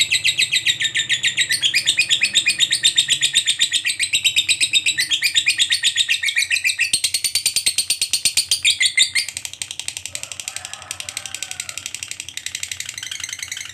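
Lovebird ngekek: a long, unbroken chattering trill made of a rapid run of high chirps. It drops in level about nine seconds in and carries on more quietly.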